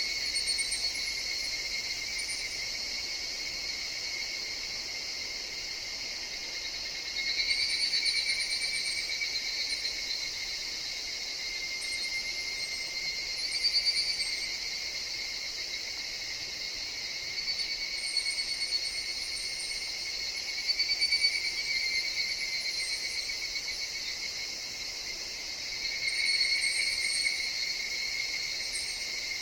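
Chorus of higurashi (evening cicadas): a steady high insect drone, with louder calls swelling up and fading away every five seconds or so. Faint short high chirps are scattered through it.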